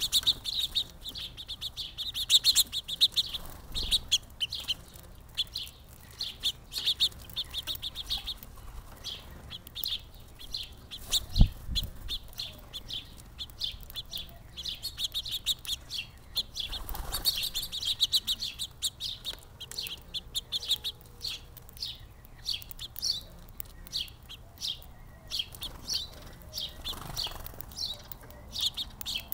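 Small songbirds chirping in busy runs of short, high chirps, with one dull thump about eleven seconds in.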